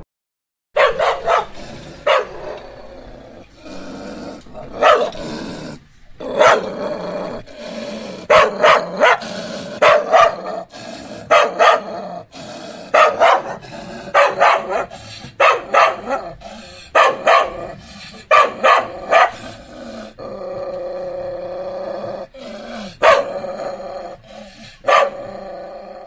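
A dog barking over and over, the barks often coming in quick runs of two or three, with growling between them.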